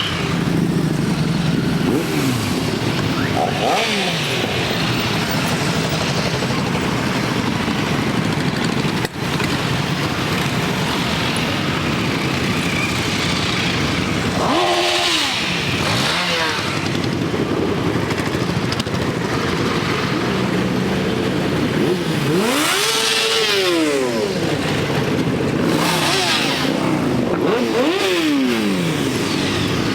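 A stream of motorcycles riding past, their engines running together, with single bikes standing out as they go by. Their engine notes rise and fall in pitch, clearest about halfway through and twice near the end.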